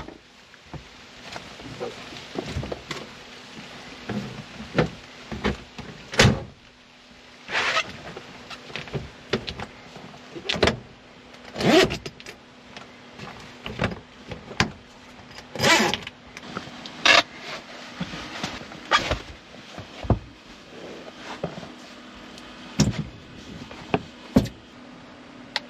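Irregular knocks, thumps and short rasping slides of camping gear being moved and stowed in a truck bed under a soft topper, with several longer scrapes or zips about 8, 12 and 16 seconds in.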